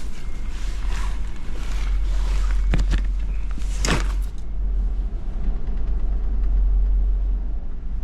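Steady low rumble of a ferry's engines heard inside the ship, with two sharp knocks a little before the middle.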